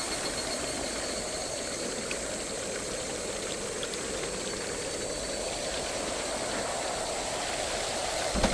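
Water flowing and splashing at a traditional waterwheel: a steady rushing that slowly swells and eases, with one dull knock near the end.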